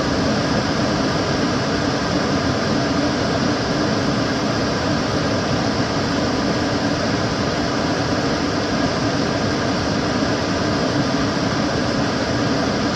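Kitchen cooker hood extractor fan running steadily: a constant rush of air with a low hum underneath.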